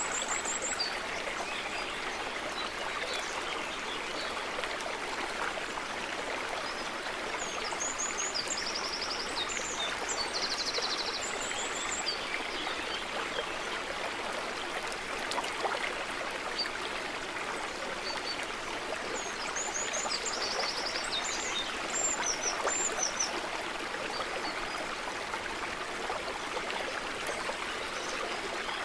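A small stream running steadily over stones. Small birds call high above it a few times in short bursts of quickly repeated notes.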